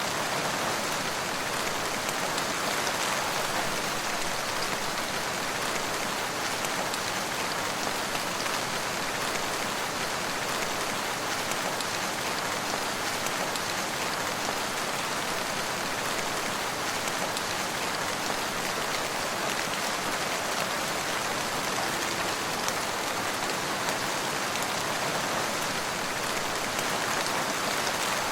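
Steady rain falling, drops pattering on surfaces in an even, unbroken hiss.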